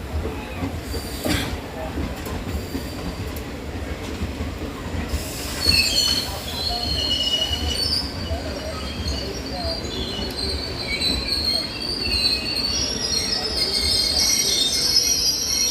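Passenger train rolling in along the platform with a low rumble of wheels on rail; about five seconds in, high-pitched brake and wheel squeal sets in and grows louder toward the end as the train slows to stop.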